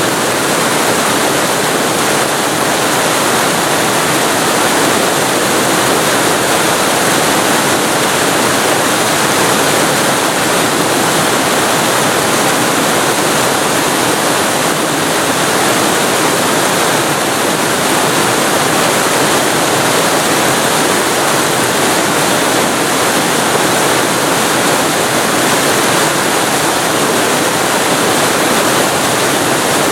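Waterfall recorded very close to the falling water: a steady, loud, even rush of water.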